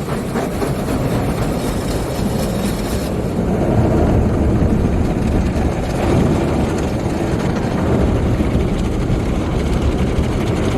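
Steady noise of a MacNeil/Sonny's tunnel car wash working on the car, heard from inside the cabin. The hiss at the top thins out about three seconds in.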